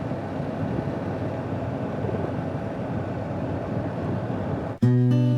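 Dual-sport motorcycle riding noise: a steady rush of engine and wind with no clear pitch. Almost five seconds in it cuts off abruptly and strummed acoustic guitar music begins.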